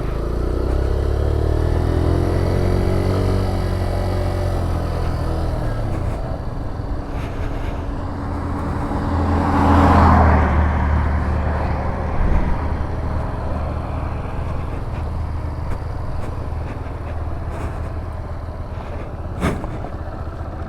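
Motorcycle engine running while riding, its pitch rising and falling with the throttle. A louder rush of noise swells and fades about halfway through.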